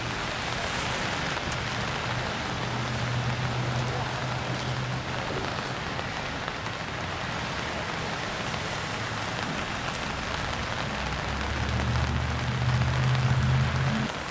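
Steady rain falling, an even hiss of drops. A low steady motor hum joins in about a second in, fades by the middle, and comes back louder near the end.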